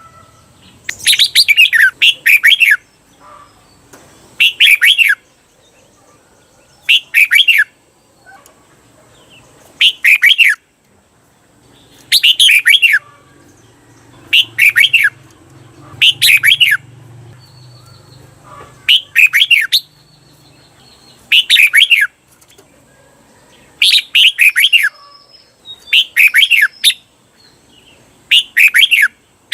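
Red-whiskered bulbul singing loud, short warbled phrases over and over, one about every two seconds, several given in quick doubled runs. This is the 'double' song that caged bulbuls are trained to copy.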